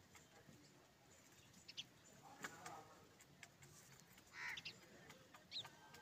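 Faint, scattered short bird chirps, a few in all, over a quiet background with a few light clicks.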